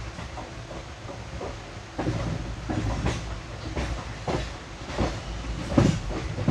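Passenger coach wheels running on the rails, with a steady rumble and, from about two seconds in, a series of sharp clattering knocks as the wheels cross the points and crossings where the train joins the main line.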